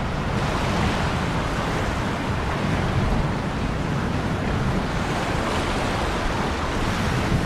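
Ocean waves washing on a shore, a steady rush of surf that swells and eases gently.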